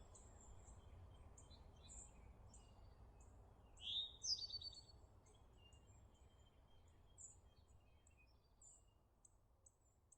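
Birds chirping, short high notes repeating about twice a second, over a faint low rumble of outdoor ambience. A louder bird call comes about four seconds in, and the whole sound fades away near the end.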